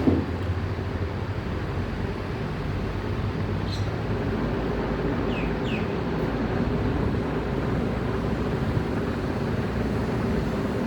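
Steady low rumbling background noise, like distant traffic or machinery hum, with a few faint short chirps in the middle.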